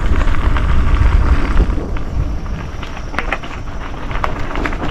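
Mountain bike riding over a dirt trail: wind rushing over the microphone with scattered clicks and rattles from the bike, the rush easing after about two seconds.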